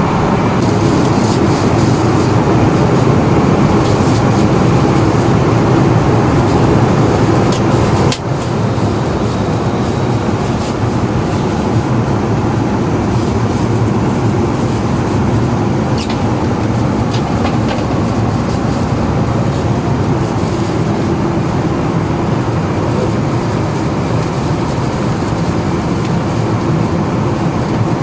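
Steady cabin noise inside an Airbus A320: a continuous low rumble and rush from the engines and airflow. The noise dips briefly about eight seconds in, and there are a few light clicks about halfway through.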